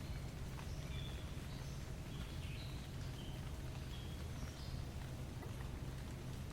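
Ambience bed of a steady low rumble with small birds chirping here and there, short high calls at varying pitches.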